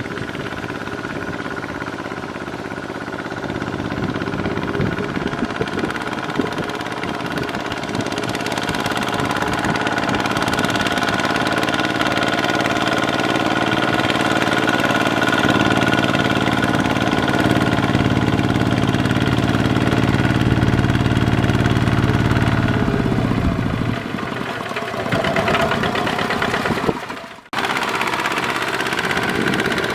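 Kubota ZT140 walking tractor's single-cylinder diesel engine running steadily while ploughing. It works harder from a few seconds in, eases about 24 seconds in, and the sound breaks off sharply near the end before it resumes.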